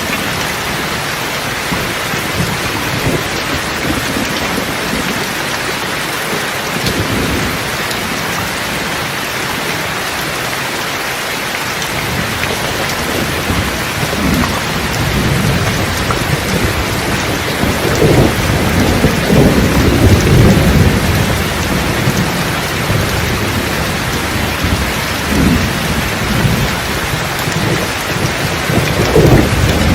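Rain falling steadily with rolling thunder. Low rumbles build from about halfway through, are loudest about two-thirds in, and return near the end.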